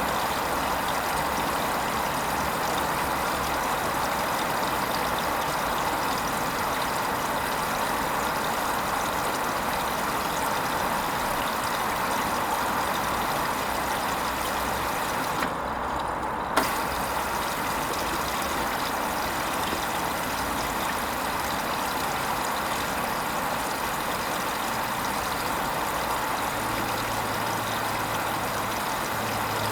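Hoover Vision HVP16 washing machine running a silks wash cycle: a steady hiss, with a low motor hum coming in near the end.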